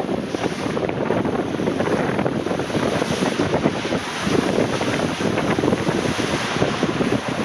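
Water rushing and splashing under a double raft as it slides down a waterslide, with wind buffeting the microphone.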